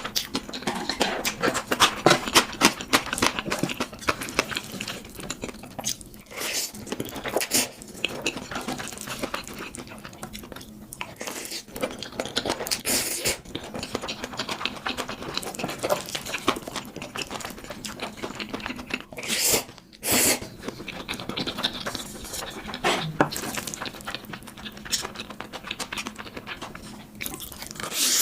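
Close-miked eating of spicy instant ramen: a steady run of wet chewing and mouth clicks, broken by several longer slurps of noodles.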